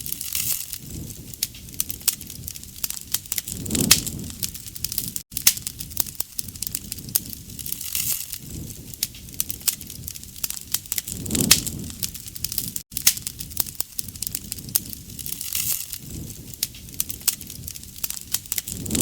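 Wood fire crackling with many sharp pops, and a low rush of flame swelling up about every four seconds.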